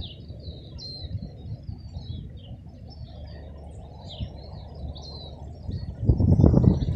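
Small birds chirping and singing in quick, high-pitched phrases over a low outdoor rumble, which swells into a louder gust-like burst near the end.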